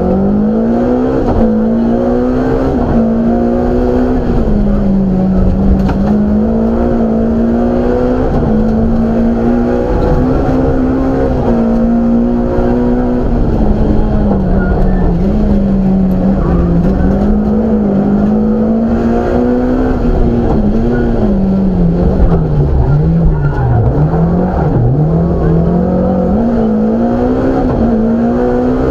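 BMW M3 rally car's engine heard from inside the cockpit at racing speed, its note rising and falling with gear changes and throttle. A little past two-thirds of the way in, it drops and climbs several times in quick succession.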